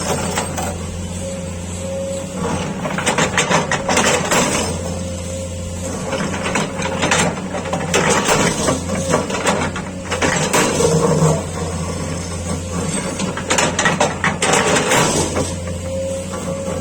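Excavator diesel engine running steadily under repeated bouts of metal clanking and scraping as a ripper tooth works the ground.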